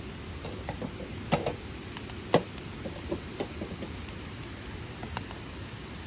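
Irregular sharp clicks and crackles over a steady hiss, with two louder cracks in the first half.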